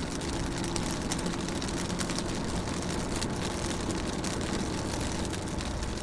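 Rain pattering on a car's windows and body, heard from inside the car as a dense patter of small drop clicks over a steady low rumble.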